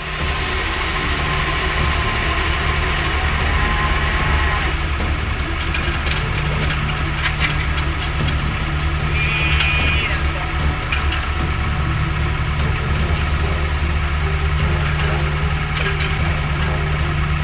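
Diesel engine of heavy construction machinery (an excavator or dump truck) running at a steady idle, a constant low hum.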